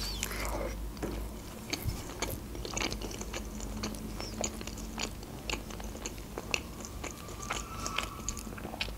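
Biting into a slice of pizza, then chewing it with many small, irregular crisp clicks.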